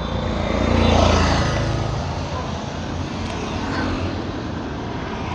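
Motor vehicle engine running, swelling louder about a second in, as a vehicle passes, then settling back to a steady rumble.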